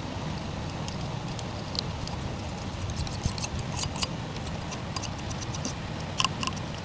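Razor blade scraping old, burnt-on gasket residue off the aluminum cylinder head's valve cover sealing surface, in irregular short scratches and clicks, with a few sharper clicks near the end.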